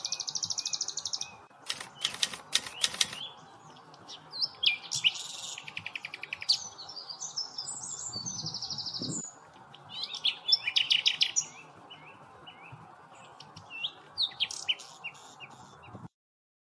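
Several birds singing and calling, with quick chirps and fast trills, over a steady background hiss. The sound cuts off abruptly near the end.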